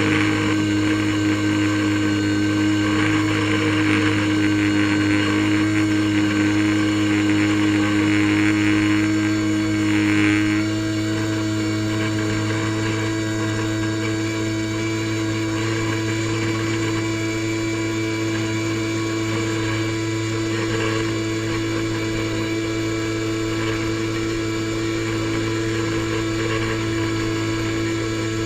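Airboat engine and air propeller running at a steady pace in a loud, even drone. The drone eases slightly about ten seconds in, then holds steady.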